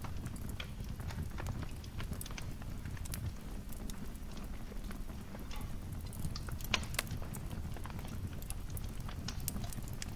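Wood fire crackling: irregular sharp snaps and pops over a low, steady rumble, with one louder pop about seven seconds in.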